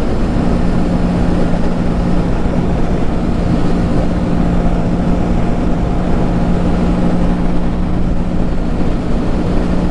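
Honda Grom's small single-cylinder four-stroke engine running at a steady speed, a constant hum, with low wind rumble on the helmet microphone.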